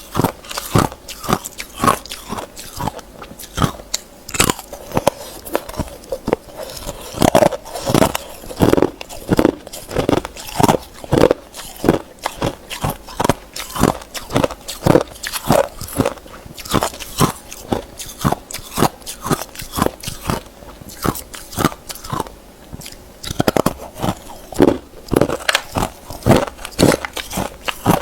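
Close-up crunching of hard ice being bitten and chewed, a rapid series of sharp crunches several a second, with a short pause about three-quarters of the way through.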